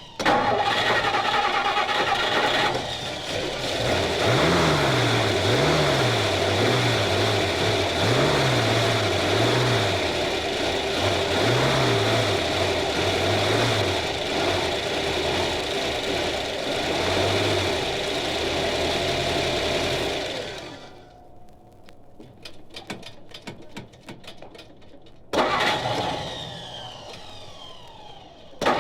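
Recorded engine sound effect: an engine starts suddenly and runs loudly, its pitch rising and falling over and over, then dies down about 20 seconds in into a spell of rapid clicking, with one more short loud burst near the end that fades away.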